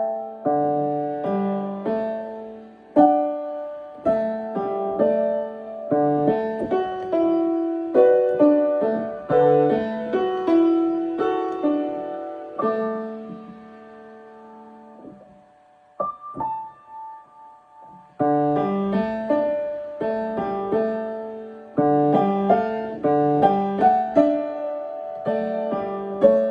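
Solo piano playing a practice passage in chords and melody notes. It breaks off about halfway, leaving only a couple of isolated notes, then picks up again about 18 seconds in.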